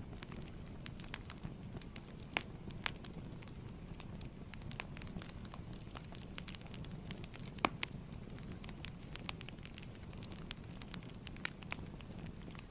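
Wood fire crackling in a fireplace: a steady low rumble of burning with irregular sharp pops and snaps, the loudest about two seconds in and near eight seconds in.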